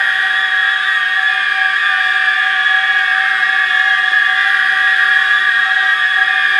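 Dissonant drone from a horror film score: several high sustained tones held together at a steady, loud level, wavering slightly, like a shrill alarm-like hum.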